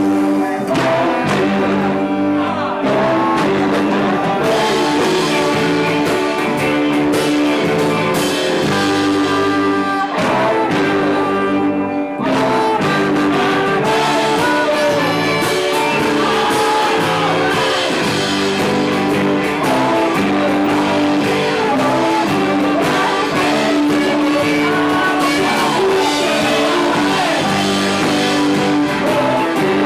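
Live rock band playing loud, guitar-led music, with a brief drop about ten to twelve seconds in.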